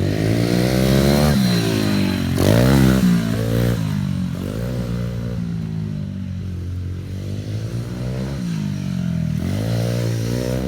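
Pit bike engine revving up and down several times, its pitch climbing and falling as the throttle is opened and closed.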